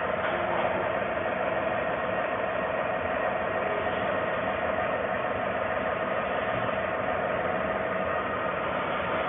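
Automatic disc balancing machine running with a steady mechanical hum and whine.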